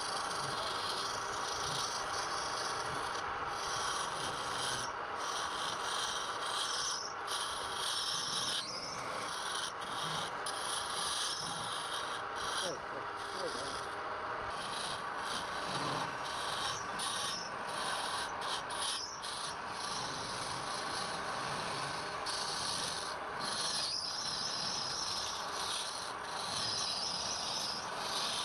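Steady rubbing of a tool or abrasive against wood, a continuous scraping noise with brief short breaks.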